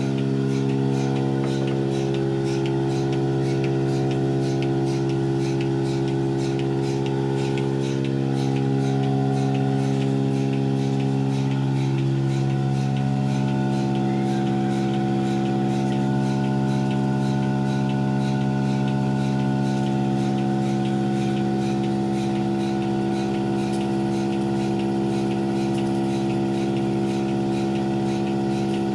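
Motor running steadily, with a faint regular ticking about twice a second.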